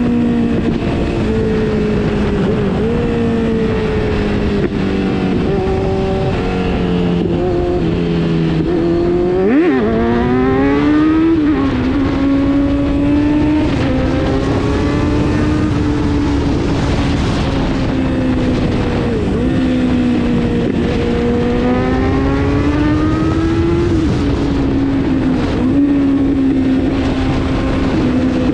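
Kawasaki Z900's inline-four engine running hard under way, its pitch climbing and dropping with throttle and gear changes, with a sharp dip and quick climb about ten seconds in.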